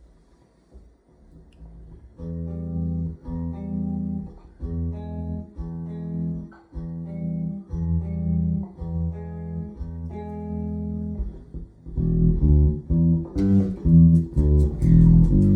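Electric bass (a custom American Deluxe Precision Bass) played through an amp on its bridge pickup, with the mids and treble turned up. After a near-quiet start it plays a line of plucked notes. Near the end the notes get louder and busier, with sharper attacks.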